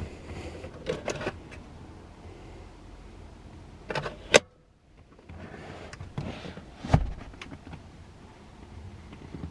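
Clicks and thumps from the car's fittings being handled. The loudest is a sharp knock a little past four seconds, and another thump comes about seven seconds in.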